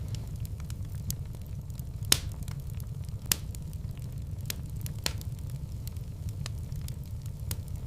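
Wood fire in a fireplace burning with a steady low rumble and scattered sharp crackles and pops, two louder pops about two and three seconds in.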